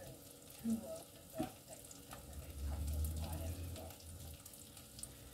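Faint sizzling of food frying in pans on the stovetop, with a couple of light knocks in the first second or so and a low rumble for about a second and a half around the middle.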